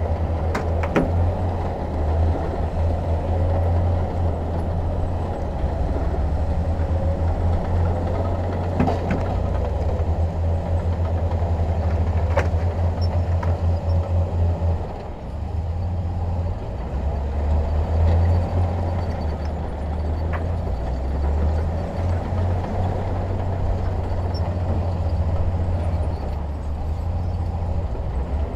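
Heavy construction machine's diesel engine running steadily with a deep hum, pulsing rapidly in stretches. A few sharp metallic knocks are heard, about a second in and again around nine and twelve seconds in.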